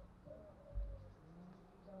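A pause in spotted dove calling, holding only one faint, low coo note and a soft low thump about a second in.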